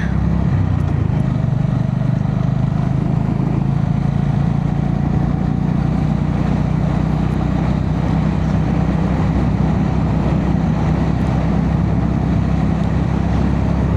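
Honda GB350S single-cylinder engine running steadily under way, with wind and road noise, heard from a mic inside a full-face helmet. The engine is running smoothly.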